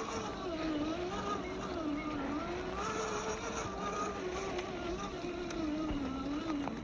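Electric motor and gearbox of an RC4WD TF2 scale crawler whining as it drives, the pitch rising and falling with the throttle. The whine stops at the very end.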